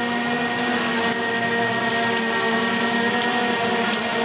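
DJI Mavic Air 2 quadcopter hovering close by, its propellers and motors giving a steady, even whining hum, with rain hissing behind it.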